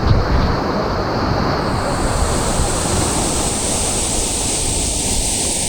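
Large waterfall rushing close by: a loud, steady roar of falling water, its hiss turning brighter about two seconds in.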